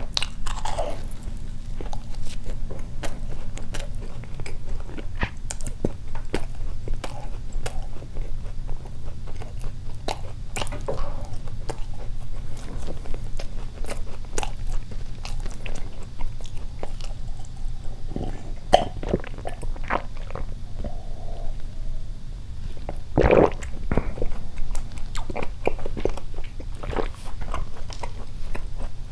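Close-miked chewing of a soft doughnut: wet mouth clicks and smacks, over a steady low rumble. Near the end a paper napkin crinkles as hands are wiped.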